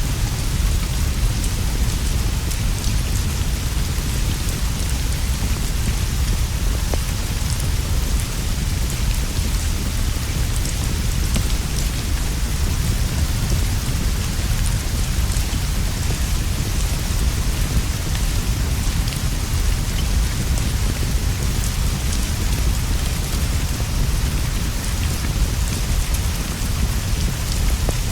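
Steady, heavy rainfall on a straw roof and leaves, with a deep unbroken rumble underneath and faint scattered crackles from a wood fire.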